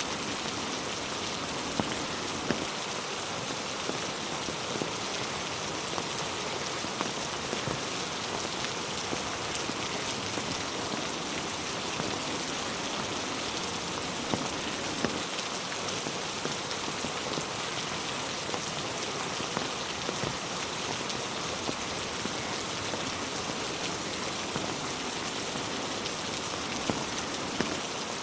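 Steady heavy rain falling on a road and on trees, an even hiss with scattered sharper drop impacts.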